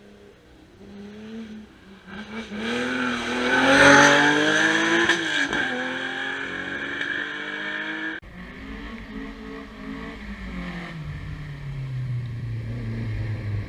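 Historic rally car engine revving hard as the car approaches and passes close, climbing in pitch through the gears, loudest about four seconds in. About eight seconds in the sound cuts abruptly to another rally car whose engine note drops and settles low.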